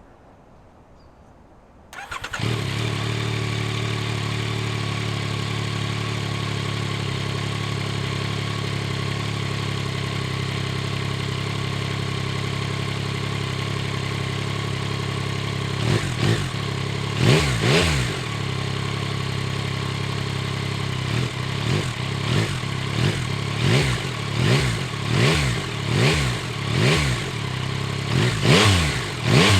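Yamaha Tracer 9 GT+ motorcycle's 890 cc inline-three engine starting about two seconds in and settling into a steady idle, then revved in short throttle blips: two near the middle, then a run of them about once a second.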